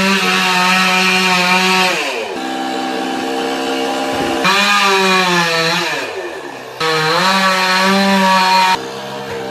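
Chainsaw engine running hard, its pitch falling and climbing back several times as the throttle is opened and eased off, with a sudden rise about two-thirds of the way in and a sudden drop near the end.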